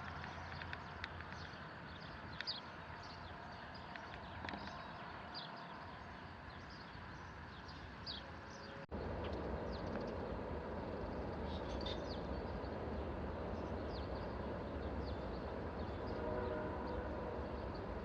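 Outdoor background noise with scattered short bird chirps. The background steps up a little louder about halfway through.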